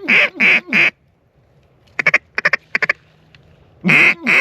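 Duck call blown at passing ducks: loud quacks in groups of three, with a quick clucking run of short notes about two seconds in.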